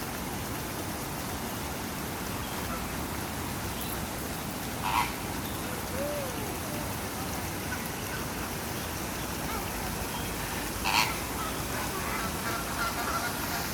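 Waterbirds calling, with two short, louder calls about six seconds apart, over a steady rushing noise.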